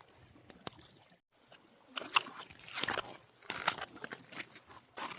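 Irregular crunching and rustling, a string of short crackly noises.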